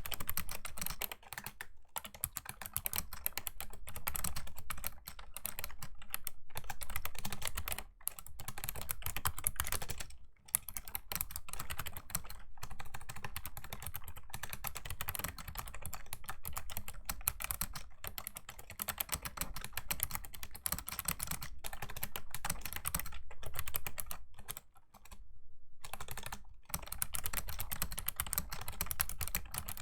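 Continuous fast typing on a Razer Ornata Chroma V2's clicky mecha-membrane keys: a dense stream of key clicks broken by a few short pauses.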